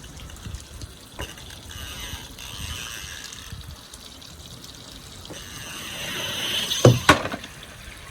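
Water running down a backyard slide while a plastic toy truck rattles down it, the rushing hiss building, then two sharp knocks about seven seconds in as the toy lands at the bottom.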